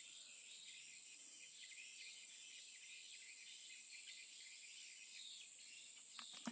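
Faint, steady chirring of insects, a continuous high, thin buzz with a busier shimmer below it. A few sharp clicks start near the end.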